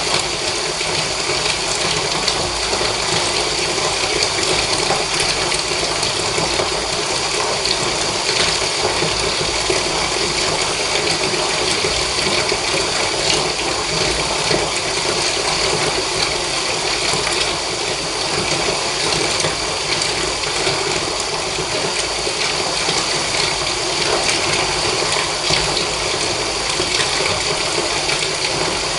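Water running steadily into a bath, an even unbroken rush.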